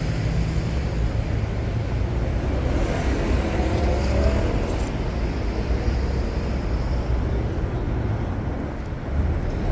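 City street traffic: road vehicles running past with a steady low engine rumble, easing off briefly near the end.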